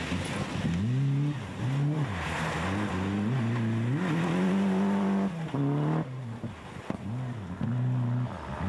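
Rally car engine revving hard on a gravel stage. The pitch climbs and drops back again and again as it shifts gear and lifts off.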